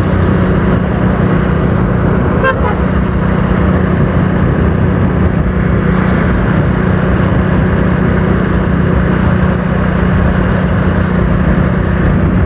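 Motorcycle engine running steadily at cruising speed, with heavy wind rush on the microphone. A short horn toot sounds about two and a half seconds in.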